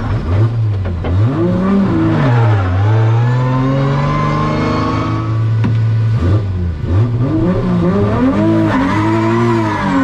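Toyota GR Supra drift car's engine revving hard and rising and falling over and over as the throttle is worked through a drift. The revs hold steady for a couple of seconds about halfway through, drop sharply, then pick up again in quick up-and-down blips near the end.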